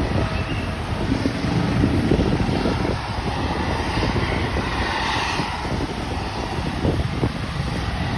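Aircraft noise under heavy wind buffeting on the microphone, swelling about five seconds in.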